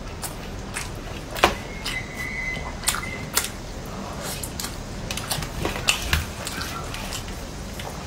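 Close-miked eating: irregular wet mouth clicks, smacks and chewing on meat strips, with one sharper click about a second and a half in.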